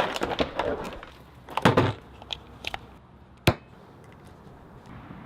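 Painter's tape being handled while masking a car: scattered rustling and crackling, a ripping burst about one and a half seconds in, and a single sharp click about three and a half seconds in.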